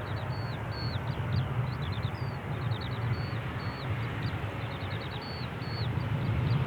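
Low rumble of an Embraer E190 jet's CF34 engines coming in to land, growing louder near the end, with small birds chirping over it in quick, repeated short notes.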